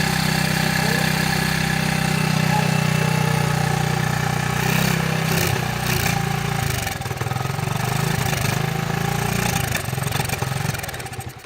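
Honda ATC 70's small four-stroke single-cylinder engine idling cold with the choke on. It runs steadily at first, then its speed wavers and dips from about halfway through, and it fades out near the end.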